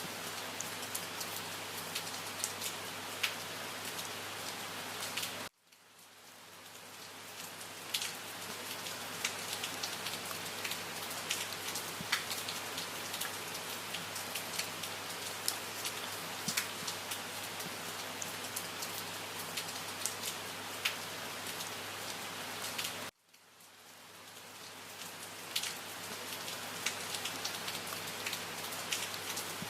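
Steady rainfall, an even hiss with individual drops ticking through it. The sound cuts out abruptly twice, about five seconds in and again past twenty seconds, each time fading back in over a couple of seconds.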